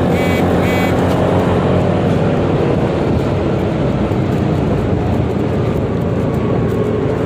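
Steady motor and road noise of riding a Yamaha XMAX 300 scooter through congested traffic, with two short high beeps just under a second in.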